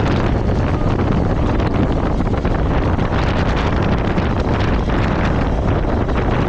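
Steady wind noise buffeting the microphone of a moving motorcycle, over a continuous low rumble of the ride.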